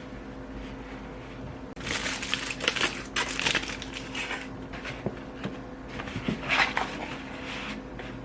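Crinkling, crumpling handling noise in two bursts of a couple of seconds each, over a faint steady hum.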